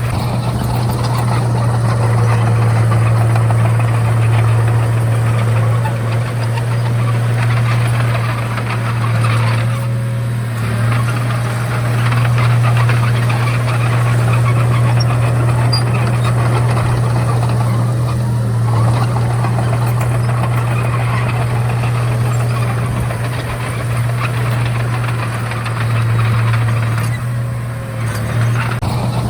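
Komatsu D31A bulldozer's diesel engine running steadily under work, with dense clattering and grinding from the tracks and blade over a low engine hum. The clatter eases briefly about ten seconds in and again near the end.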